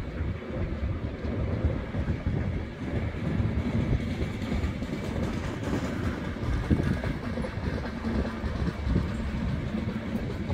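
Trenitalia Intercity passenger coaches rolling past on the rails: a steady low rumble of wheels on track, with a light clicking of wheels over the rail joints.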